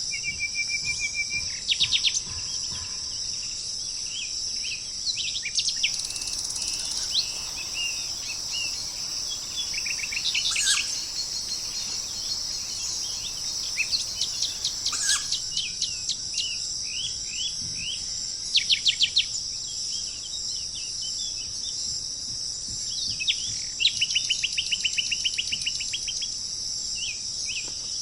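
Several small songbirds chirping and trilling, with quick rapid trills near the start and again near the end, over a steady high-pitched background buzz.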